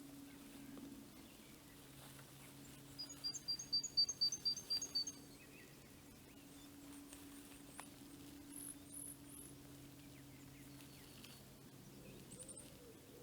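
A small songbird sings a phrase of about eight quick, evenly repeated high notes a few seconds in, followed later by a few fainter, very high calls. A faint steady low hum lies underneath.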